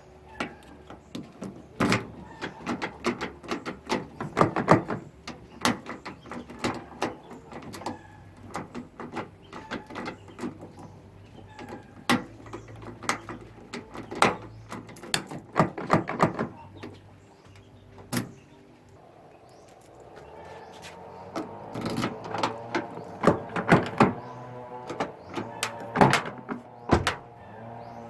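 A car door's handle and latch mechanism worked over and over, giving a long run of sharp clicks and clunks in clusters. About two-thirds of the way in, a steady hum with a few pitched tones starts under the clicking.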